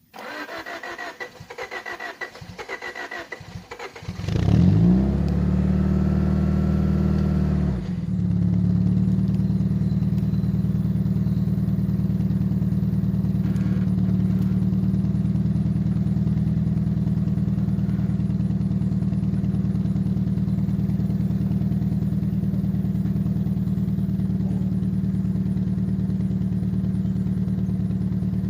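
A car engine cranked by its starter for about four seconds until it catches, revs up and holds high for a few seconds, then drops back to a steady idle.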